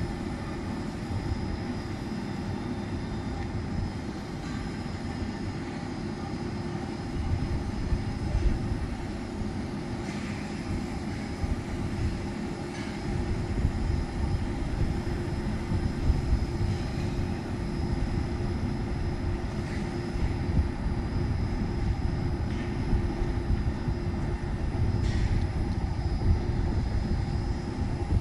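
A remote-controlled tracked mower's engine running steadily with a constant hum and a low rumble that swells and eases a little.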